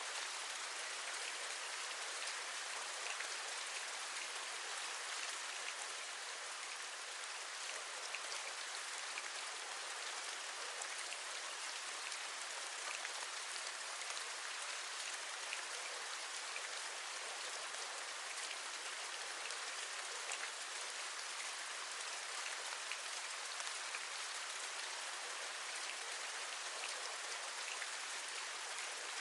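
Steady rain falling, an even hiss with scattered small drop taps throughout.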